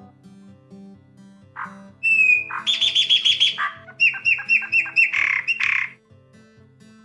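Chopi blackbird (graúna) singing: a rapid run of short repeated notes, then a series of down-slurred whistles and a harsh buzzy note, starting about two seconds in and lasting about four seconds. Soft background music plays underneath.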